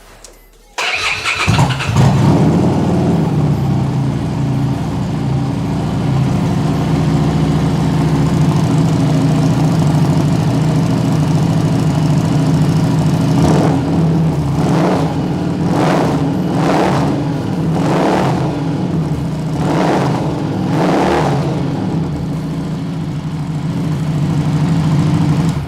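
A 2015 Harley-Davidson Street 750's V-twin engine, fitted with an aftermarket silencer that is "quite a noisy thing", is cranked on the electric starter and catches within about a second, then idles steadily. From about halfway through, the throttle is blipped about seven times in quick revs.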